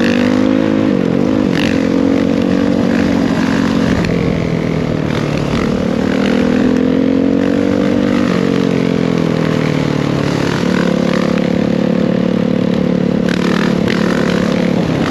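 Dirt bike engine running under way, its note climbing and falling several times as the throttle is worked, with sharp drops about four, eight and eleven seconds in.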